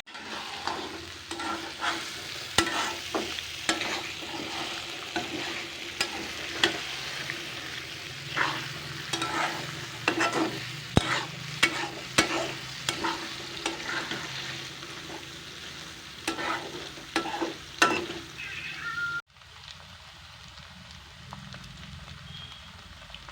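Food sizzling as it fries in a pan, stirred with a utensil that gives frequent sharp clicks and scrapes against the pan. About nineteen seconds in, the sound cuts off abruptly to a quieter steady background.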